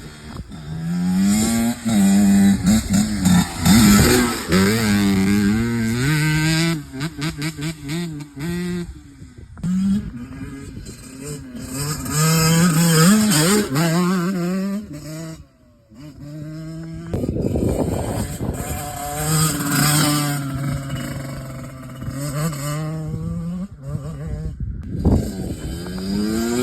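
Dirt bike engine being ridden hard, revving up and dropping in pitch again and again as it shifts and lets off, with a short break about halfway through.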